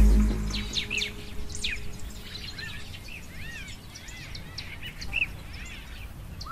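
Birds chirping: a string of short, high, arching calls, several a second. A deep low boom right at the start is the loudest thing.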